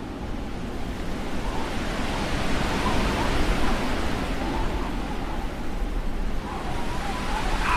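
Blizzard wind blowing as a steady rush that swells in strength, with a faint wavering whistle.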